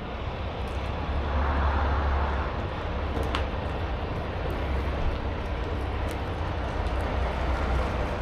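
Semi-truck engine and road noise: a steady low rumble with a hiss above it, swelling briefly about a second in.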